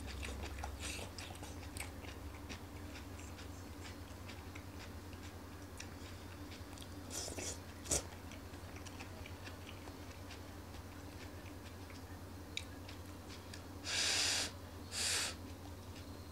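A man chewing mouthfuls of stir-fried vegetables, with many small wet clicks and crunches, a sharp click about eight seconds in, and two short hissing breaths close together near the end.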